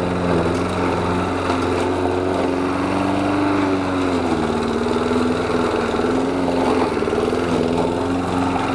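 Lawn mower engine running steadily while mowing. Its pitch dips briefly about halfway through, as if taking load in thicker grass, then recovers.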